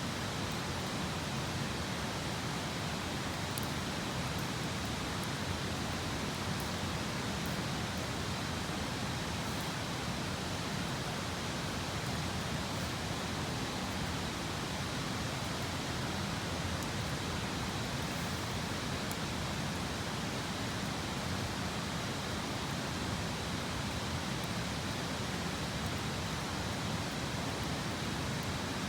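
Steady rushing outdoor background noise, with a few faint, sharp crackles from a wood campfire now and then.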